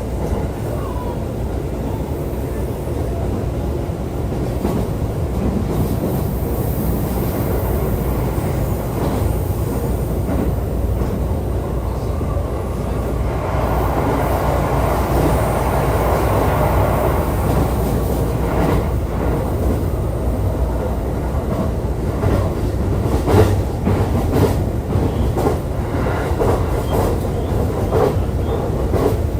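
E531 series electric multiple unit running, heard from inside the car: a steady rumble of wheels on rail. About halfway through, a mid-pitched noise swells and fades, and in the second half there are repeated clacks as the wheels pass over rail joints.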